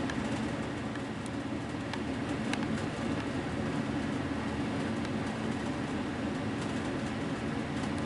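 House furnace running, a steady low hum.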